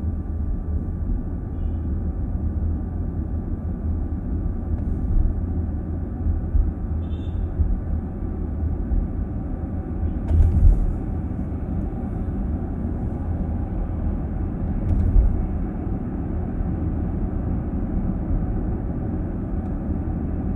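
Inside a moving car's cabin: steady low road and tyre rumble with engine hum. Two brief louder thumps come about halfway through and again a few seconds later.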